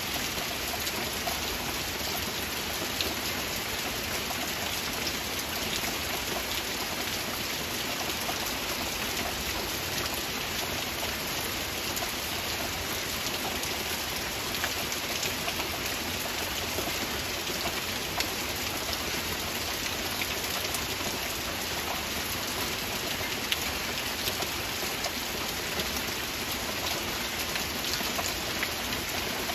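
Heavy rain falling steadily, an even hiss scattered with the ticks of single drops.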